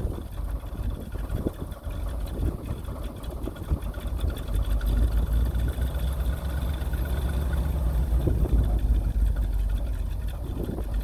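Chevrolet C50 grain truck's engine running steadily, growing louder from about four seconds in and easing back near the end.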